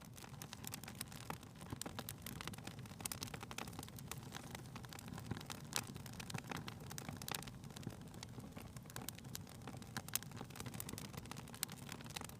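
Wood fire crackling in a fireplace: a steady low hiss with irregular pops and snaps.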